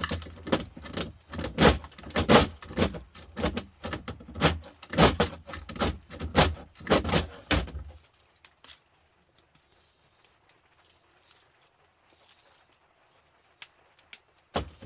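Scrap aluminium and copper pieces from a radiator teardown clinking and clattering as they are handled and sorted, for about eight seconds. Then it goes almost quiet, with one sharp click near the end.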